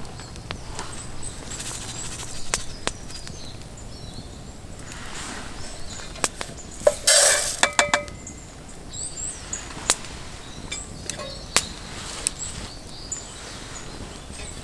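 Scattered sharp clicks and crackles, with a louder clattering clink about seven seconds in that rings briefly. Faint high chirps sound in the background.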